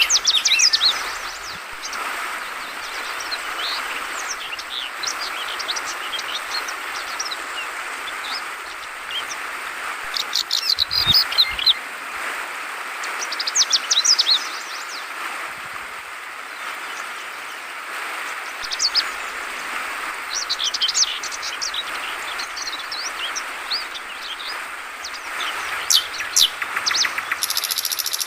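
Trucukan (yellow-vented bulbul) calling in short bubbly bursts of chirps, loudest about 10 to 14 seconds in and again near the end, over a steady trickle of running water.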